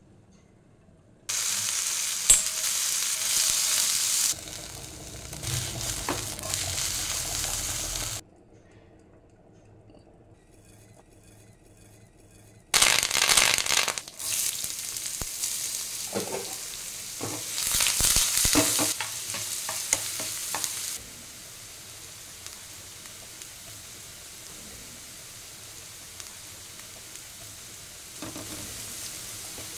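Hot oil in a non-stick frying pan sizzling and spluttering as tempering seeds, curry leaves, green chilli and chopped onion go in and are stirred. A loud sizzle starts about a second in and drops away for a few seconds. It returns sharply near the middle with a few knocks, then settles to a steady, quieter sizzle for the last third.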